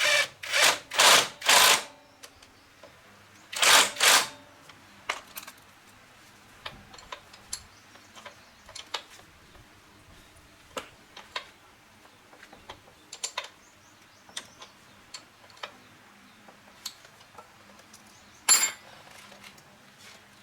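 Small metal tools and parts clicking and clinking during motorbike repair work, with several short, loud hissing bursts: four quick ones at the start, two about four seconds in and one near the end.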